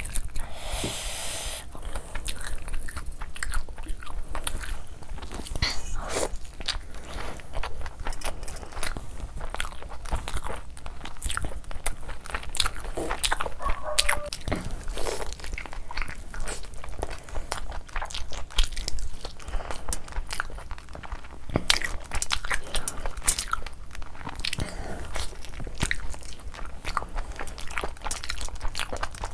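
A person chewing and biting mouthfuls of chicken curry and rice eaten by hand, with many irregular wet clicks and smacks of the mouth.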